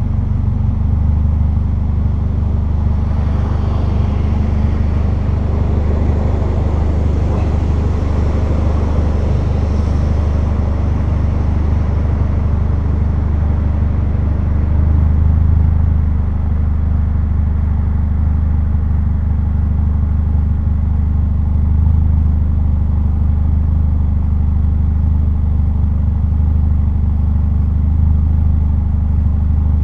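Renault Clio 1.6 16v K4M four-cylinder engine running steadily at low revs through a straight-through 2-inch exhaust, heard from outside the car as a deep, even hum. The level swells slightly a couple of times.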